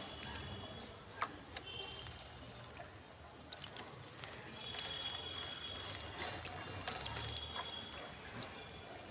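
House sparrows bathing, splashing water in a shallow bath, with scattered sharp splashes and drips.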